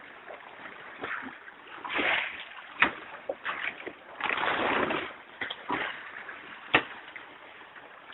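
Water splashing against the hull of a sailing dinghy in bursts, two of them longer, with a few sharp single knocks between.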